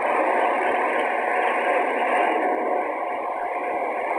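Airbus A330neo's Rolls-Royce Trent 7000 engines running, a steady smooth jet rush with a faint steady tone held through it.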